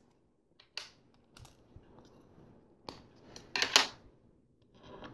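Plastic LEGO pieces clicking and clattering as they are handled: a few separate sharp clicks, then a louder clatter about three and a half seconds in.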